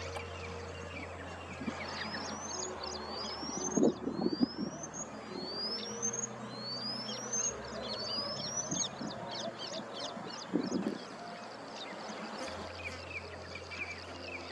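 Wild birds calling: a series of about six rising whistles, each under a second long, over steady chirping, with two short, louder low bursts, one a few seconds in and one near the end.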